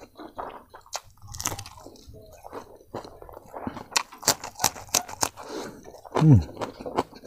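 Close-up mouth sounds of chewing boiled pork trotter and rice, with a quick run of crisp crunches about four seconds in as a raw green chilli is bitten and chewed. Near the end, one short falling hum.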